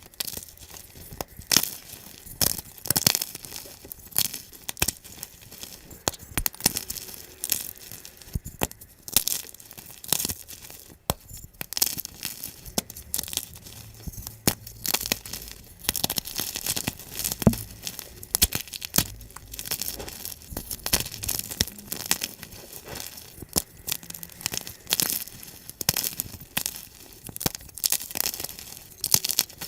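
Gym chalk being crushed, sped up: a dense, irregular run of dry crunching crackles, several sharp ones a second.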